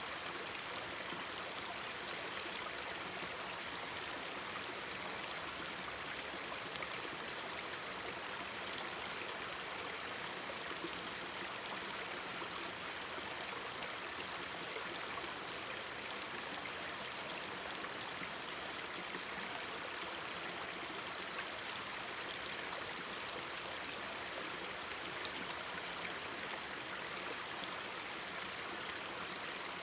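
Mountain stream babbling steadily, with a few sharp pops from a wood campfire, the loudest about seven seconds in.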